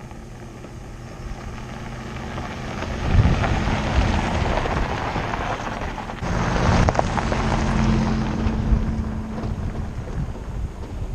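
A vehicle driving: a low engine hum under wind and road noise. The noise swells about three seconds in and again about six seconds in, then eases.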